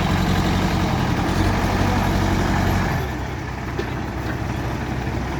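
Heavy diesel engine running steadily, dropping in level about three seconds in.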